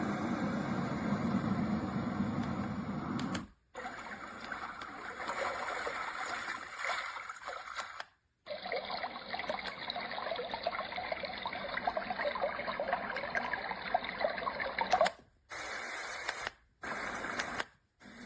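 Yogasleep Duet white noise machine cycling through its built-in sounds: steady noise and water-like sounds. Each is switched to the next every few seconds, with a brief silent gap between them.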